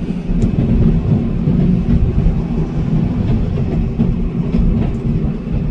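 Tram running on its rails: a steady low rumble with a few faint clicks.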